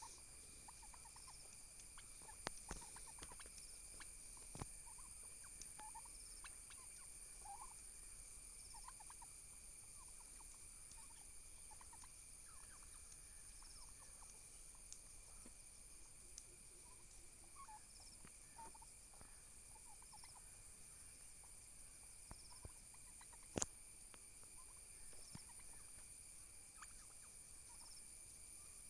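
Faint, scattered short calls of domestic turkeys. A few light knocks and one sharp click about three-quarters of the way through stand out, over a steady faint high whine.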